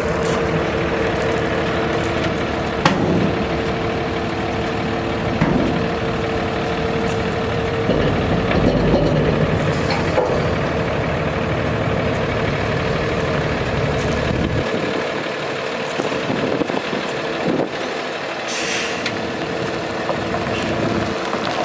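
Cummins ISB diesel of a Freightliner M2 dump truck running steadily, with two short hisses of air from the air system partway through and near the end. The deep rumble drops away abruptly about two-thirds of the way through.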